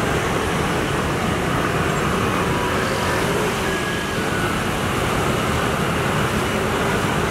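Steady road-traffic noise from running vehicles, with a few faint, brief high tones about halfway through.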